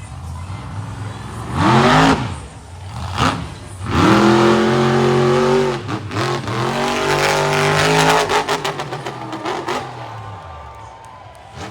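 Monster truck engine revving hard: a quick blip, then a long high-rpm run with the pitch rising and holding, breaking up into a rapid crackle as it drops off and fades near the end.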